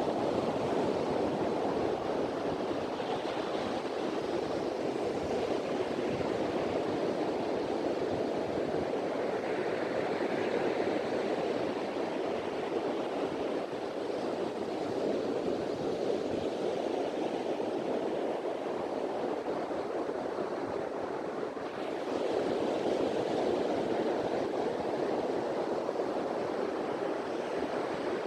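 Sea waves washing onto a beach, with wind: a steady, full rushing that swells and eases a little and grows again about three-quarters of the way through.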